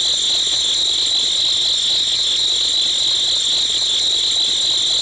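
Small electric motor of a homemade miniature machine running steadily at high speed, with a constant high-pitched whine over a rattly buzz.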